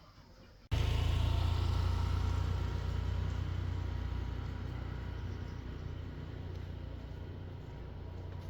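A motor vehicle's engine running with a steady low drone that cuts in abruptly about a second in and slowly fades.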